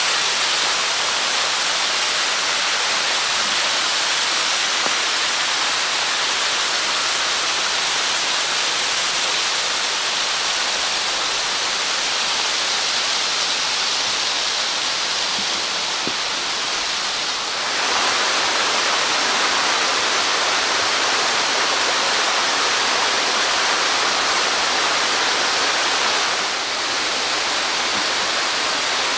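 Steady rushing water of a small waterfall of about 6 m drop, loud and even, easing off briefly twice.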